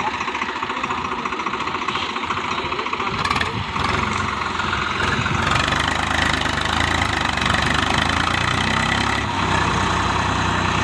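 Diesel tractor engine running steadily, its sound getting louder and heavier about three and a half seconds in.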